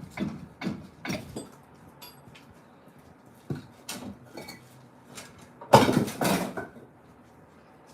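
Hand tools knocking on concrete during manual demolition: a quick run of sharp clinking knocks at the start, a few scattered knocks, then a louder clatter lasting about a second, about six seconds in.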